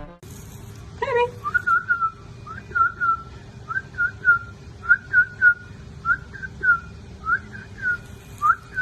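Short whistle-like chirps, each a quick glide in pitch, repeated singly and in quick twos and threes from about a second in, over a faint steady hum.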